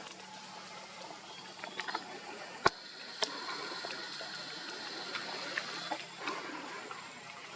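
Outdoor ambience with a single sharp knock a little under three seconds in, a lighter click just after, then a thin steady high-pitched tone lasting about three seconds.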